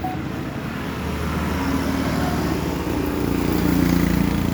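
Motor vehicle engine running steadily, growing a little louder about three and a half seconds in.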